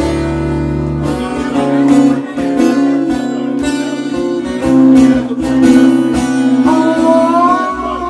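Live slow blues: a guitar plays an instrumental fill between sung lines, with the band's bass under it for about the first second.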